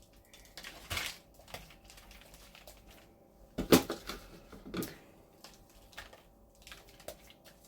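Scattered light taps and crinkles of hands handling a raw chicken on a cut-open plastic bag while it is seasoned with a dry rub, the sharpest taps about a second in and around the middle.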